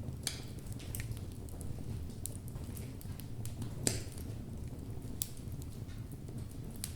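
Logs burning in a fireplace: a steady low rumble of the flames with irregular sharp crackles and pops from the burning wood, the loudest pop just before the middle.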